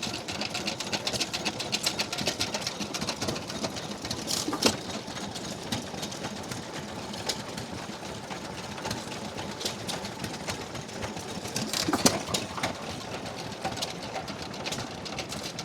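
A restored 4 hp Gray hit-and-miss engine running, with a fast steady mechanical clatter and a few louder strokes about four and a half and twelve seconds in.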